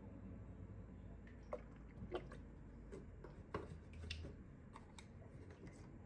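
Faint handling sounds: a handful of light, scattered clicks and taps, irregularly spaced, over a low steady hum.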